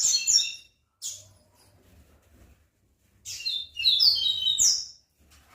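A caged seedeater singing: a fast phrase of high chirping notes ending about half a second in, a brief note soon after, then after a pause a second rapid phrase of about two seconds.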